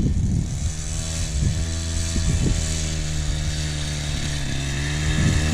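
The 50cc two-stroke engine of a Fit Right DB002 mini bike running at a steady speed, its pitch dipping slightly and picking up again near the end.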